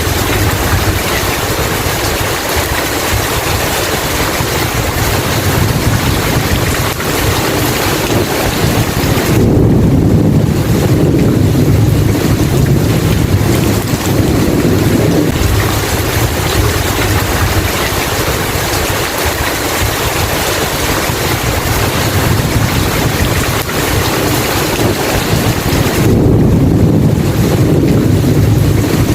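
Steady heavy rain. Twice, about ten seconds in and again near the end, a low rumble of thunder swells up under it.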